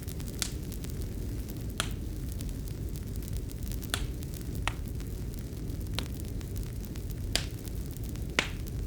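Wood fire crackling in a fireplace: sharp pops at irregular intervals over a steady low rumble.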